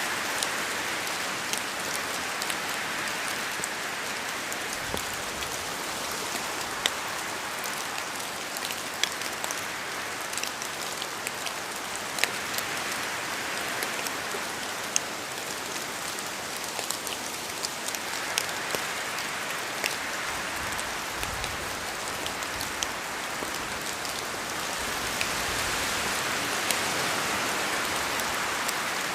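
Steady rain falling, with a continuous hiss and individual drops ticking sharply close by. It swells a little louder near the end.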